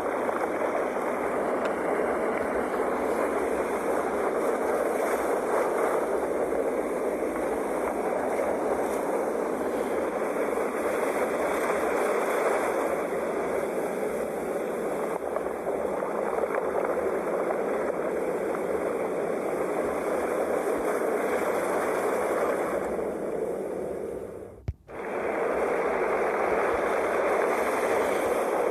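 Sea waves washing steadily. About 25 seconds in, the sound cuts out for a split second and comes straight back.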